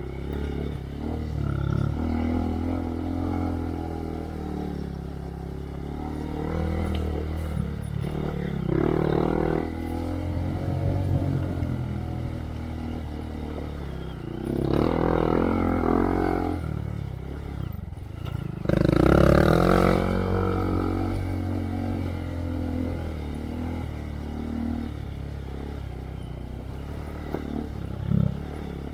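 2023 Honda Monkey's single-cylinder engine through a Yoshimura RS3 exhaust, riding along a trail: a steady low running note with throttle pulled on and off, rising in a few bursts, the strongest about two-thirds of the way through.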